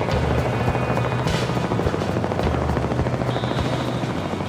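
Helicopter in flight: a steady, continuous rotor and engine sound.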